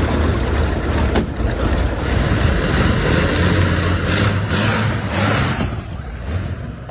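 The 47-litre BMW V12 aircraft engine of the Brutus car running with a low, steady rumble, with a sharp crack about a second in, easing slightly near the end.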